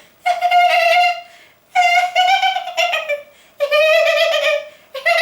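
A woman's high-pitched, squeaky voice imitating a tiny frog's giggle: four drawn-out squeaks of about a second each, with short breaks between them.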